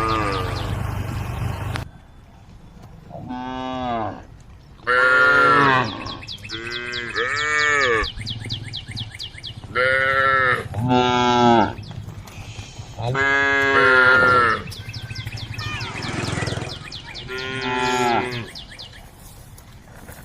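Cows mooing over and over, about nine calls in turn, each about a second long and rising then falling in pitch.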